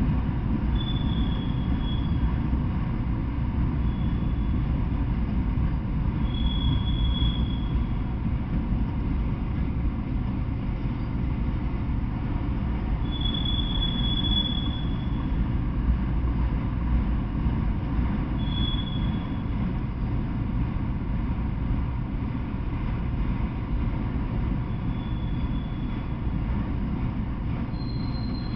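Freight train of autorack cars rolling past, a steady low rumble of wheels on rail, with brief high-pitched wheel squeals every few seconds, the longest about halfway through.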